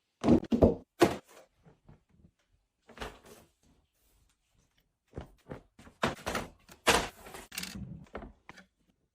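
A series of irregular knocks and thuds from objects being handled and set down during cleaning, a cluster in the first second, a lone knock about three seconds in, then a denser run of knocks from about five to eight and a half seconds in.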